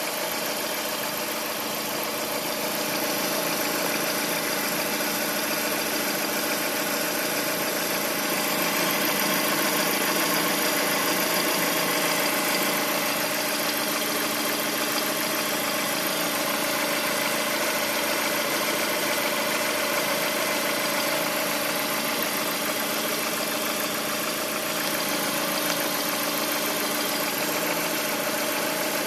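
Lada Priora's four-cylinder petrol engine idling steadily with a knock that the owner calls strange and cannot identify.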